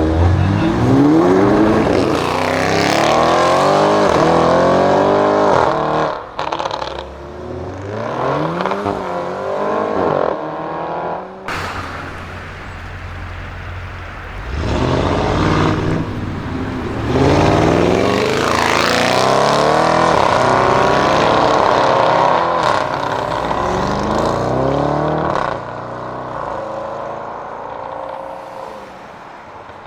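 Audi RS6 Avant C7's twin-turbo V8 through a Milltek exhaust, accelerating hard twice. The pitch climbs steeply, then drops at each gear change, with the car quieter between the two runs.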